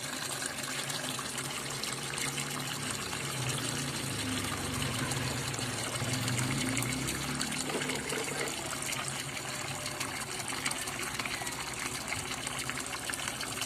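Water running and gushing steadily, as from a tap or hose pouring over toys. A faint low hum joins it in the middle.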